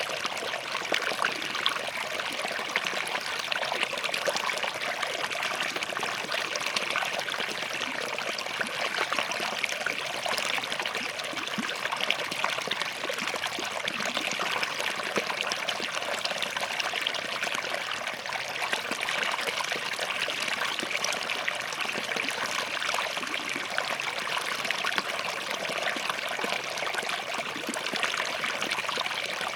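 Small forest stream running over and between rocks: a steady babbling rush with fine splashing and trickling detail.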